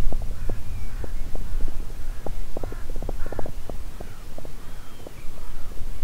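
Birds calling in a busy chorus: many short calls, several a second, with a few higher rising-and-falling notes, over a steady low rumble.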